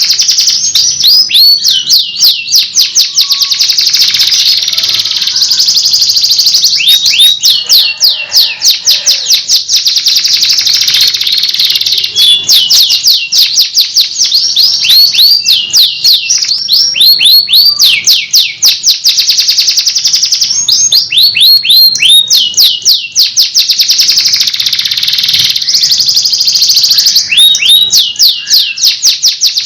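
Domestic canary singing a continuous song of fast trills and rolling phrases of rapidly repeated high notes, changing from one phrase to the next without pause. The song is loud and close.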